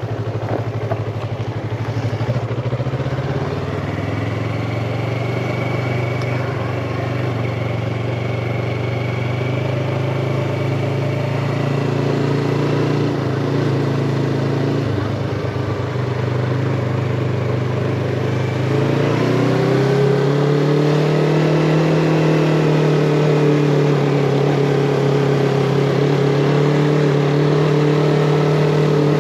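Yamaha MT-25 parallel-twin motorcycle engine running under way, with air rushing past. The engine note dips briefly about halfway through, then climbs in pitch and grows louder for the last third as the bike pulls harder.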